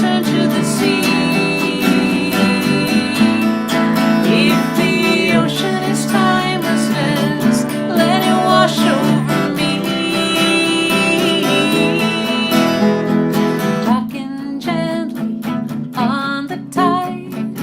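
Acoustic guitar music: strummed guitar with a melody line over it, thinning out and turning sparser about fourteen seconds in.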